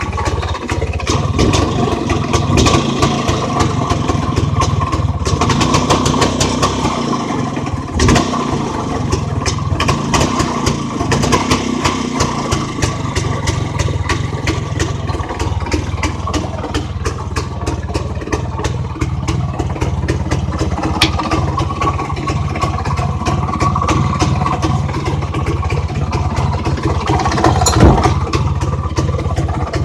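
IZh Planeta motorcycle's single-cylinder two-stroke engine running, its speed rising and falling a little, with one brief loud burst near the end. It runs fine after the clutch-basket ratchet repair.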